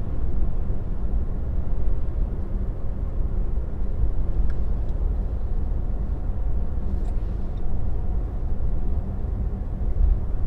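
Steady low road and tyre rumble heard from inside the cabin of an electric Tesla as it drives, with no engine note.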